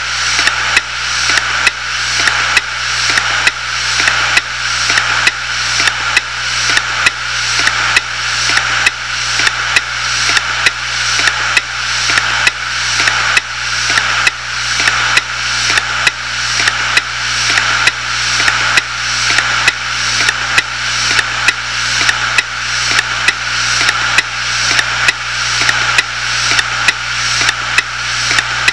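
Failing 250 GB Hitachi Deskstar 7200 RPM IDE hard drive clicking over and over at a steady rate, more than once a second, over the hum and whir of its spinning platters. The repeated clicking is the noise the drive made as it died.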